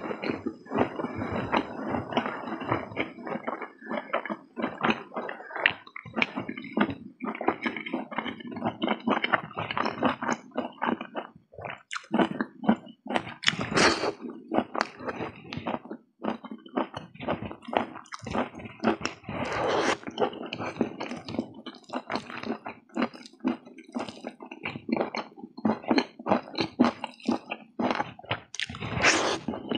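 Close-up mouth sounds of a person chewing a mouthful of rice, noodles and meat eaten by hand: rapid, irregular wet smacks and squelches of lips and food.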